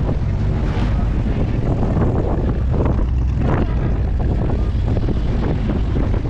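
Engines of classic American cars running with a steady low rumble, with wind buffeting the microphone.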